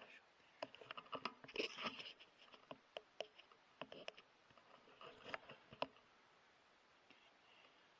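Faint, irregular clicks and short crackling rustles that stop about six seconds in.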